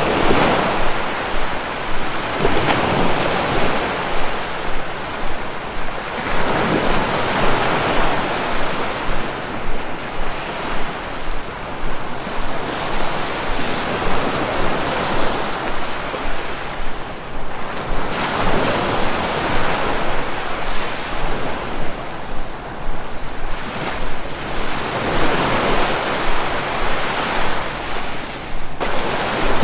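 Sea waves breaking and washing up on the shore, a continuous rush that swells and eases every few seconds.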